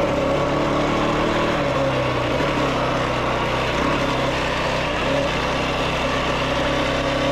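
Yamaha YFZ450R's single-cylinder four-stroke engine idling steadily at an even pitch.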